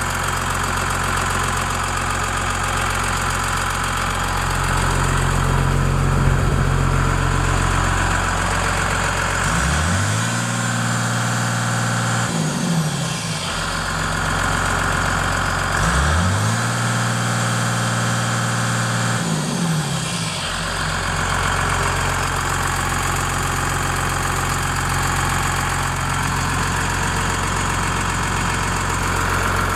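John Deere 544J wheel loader's diesel engine idling steadily, revved up twice for a few seconds each, the pitch rising, holding, then falling back to idle.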